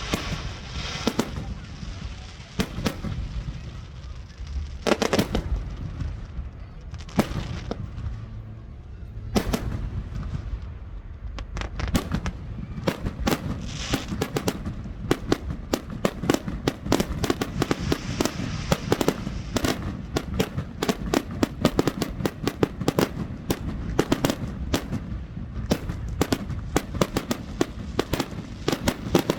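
Fireworks display: a few separate booms of shells bursting, each with a ringing tail, then from about twelve seconds in a rapid, continuous barrage of many bangs in quick succession.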